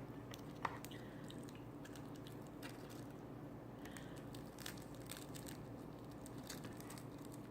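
Close-up chewing of a crunchy baked chicken wing: faint, scattered crunches and mouth clicks.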